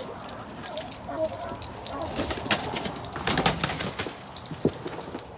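Backyard poultry calling, with a cluster of sharp flaps and clicks about two to four seconds in.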